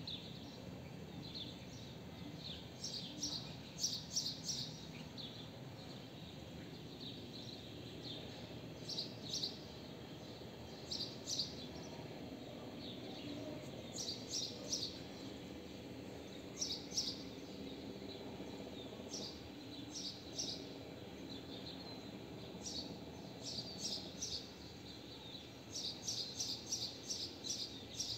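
Small birds chirping: quick clusters of short, high notes every few seconds, over a steady low background hum.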